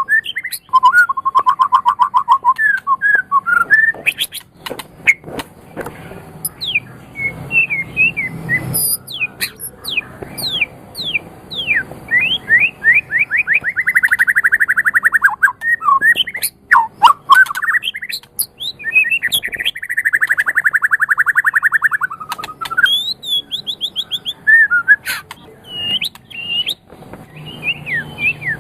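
White-rumped shama singing a long, varied song: fast trills, quick downslurred whistles and high thin chips, phrase after phrase with short pauses.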